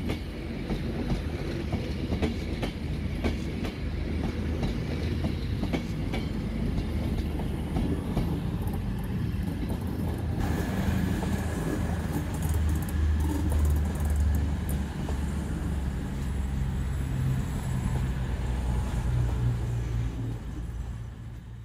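Train moving through a station: wheels clicking over rail joints in the first half, then a steady low drone from the train that grows louder later on.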